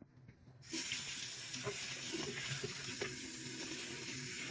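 Tap water running steadily, rinsing out a wet-dry vacuum's dirty-water tank; it starts a little under a second in.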